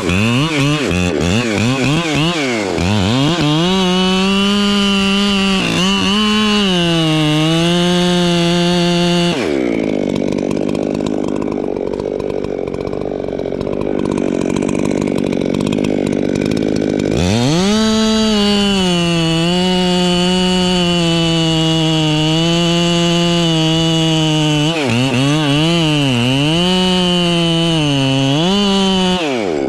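Echo two-stroke chainsaw running at high revs, its pitch sagging and wavering as it bogs under load in the cut, after quick up-and-down revs at the start. About ten seconds in it eases off for several seconds, then runs up to full speed again and drops off right at the end.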